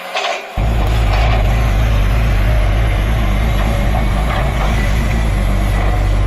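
A heavy engine idling, low and steady, that cuts in suddenly about half a second in after a couple of brief clicks.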